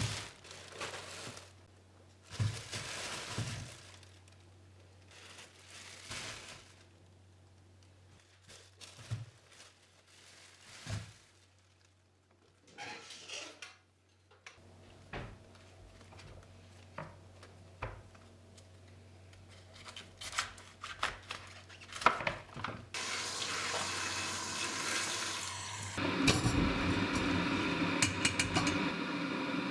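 Kitchen work sounds: dishes, pans and utensils knocking, clinking and scraping in short scattered bursts. Near the end a steady rushing noise starts and soon gets louder.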